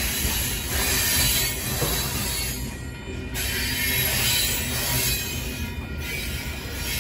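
Covered hopper cars of a freight train rolling past close by: a steady rumble and hiss of steel wheels on rail with faint high wheel squeal, swelling and dipping a few times as the cars go by.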